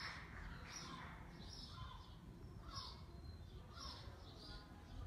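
Small birds chirping: short, high chirps repeated every second or so, sometimes in pairs, faint.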